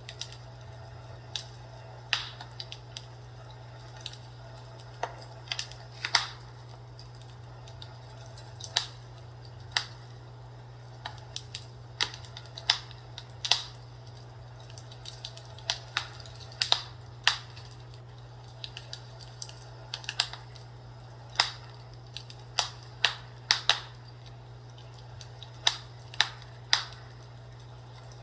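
Fireplace crackling as wood burns: irregular sharp pops and snaps at uneven intervals, over a steady low hum.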